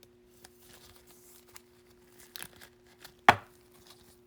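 Baseball cards and their plastic sleeves or wrappers being handled: soft rustling and small clicks, with one sharp tap a little over three seconds in. A steady low hum sits underneath.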